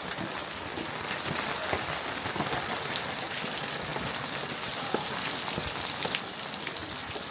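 Steady rain falling, with many separate drop hits landing close by.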